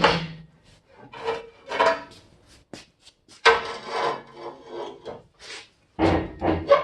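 Metal scraping and rubbing in irregular rasping strokes as the boom assembly is pried forward with a pry bar, with a sharp knock about two and a half seconds in. A low pitched drone sounds at the start and again in the last second.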